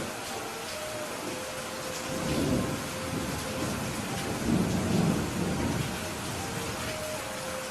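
Steady rain falling, with two low rolls of thunder: one about two seconds in and a louder one about halfway through.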